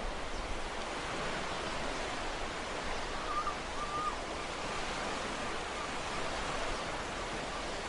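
Ocean waves breaking and washing on a shore, a steady, even hiss of surf.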